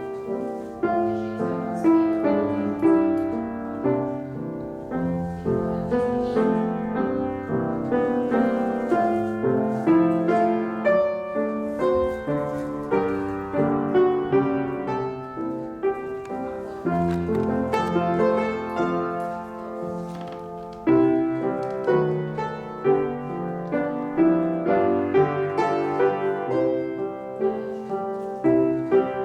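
Piano playing ballet-class accompaniment with a steady beat, easing off briefly about twenty seconds in.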